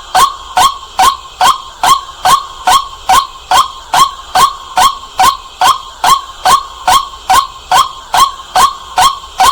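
White-breasted waterhen calling: a loud 'kwak' note repeated very evenly, about three calls a second, each a short note that hooks up in pitch.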